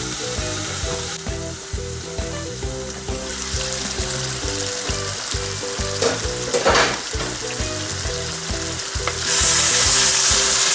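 Mutton and gravy sizzling in a wok, louder near the end as a wooden spatula stirs the meat. Background music plays underneath.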